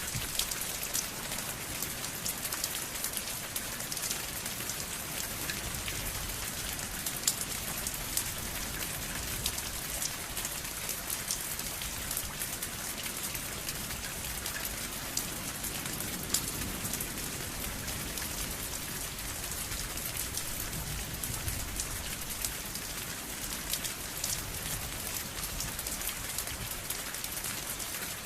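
Steady rain falling, an even hiss with scattered sharp drips and ticks of individual drops striking a surface.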